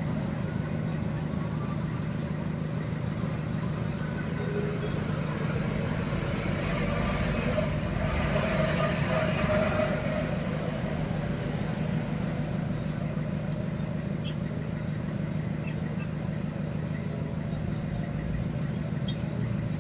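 Steady motor-vehicle engine hum, swelling louder for a couple of seconds around the middle.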